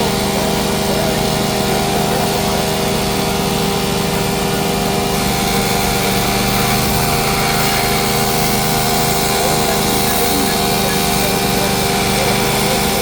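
Shop machinery running steadily: a constant mechanical drone with a steady multi-tone hum under a noisy hiss.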